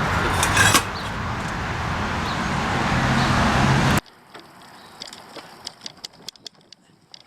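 Steady motor-vehicle road noise with a low hum, slowly getting louder, cut off abruptly about four seconds in. After that it is much quieter, with scattered light clicks.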